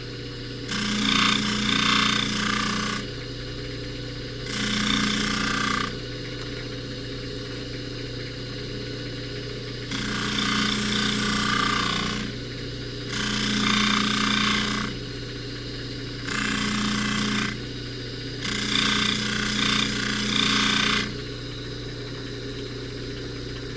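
Jewelry buffing machine running with a steady hum, as a necklace is pressed against the rouge-loaded buffing wheel six times for a second or two each, a rough rubbing hiss with each pass.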